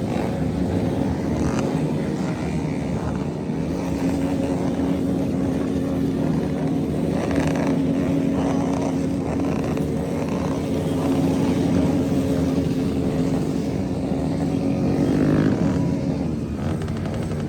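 Motorcycle engine running steadily while riding, with a brief rise in revs and loudness a couple of seconds before the end.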